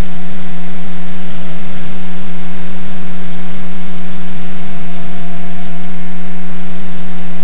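Cessna 185 Skywagon's engine and propeller running steadily at low rpm, heard from inside the cabin as a loud, even drone with a constant hum.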